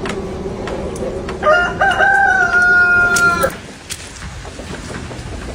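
A rooster crowing once, one long call of about two seconds that ends abruptly about three and a half seconds in.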